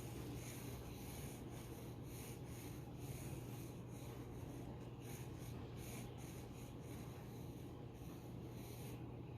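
Pencil scratching on paper in quick, irregular strokes, several a second, over a steady low hum.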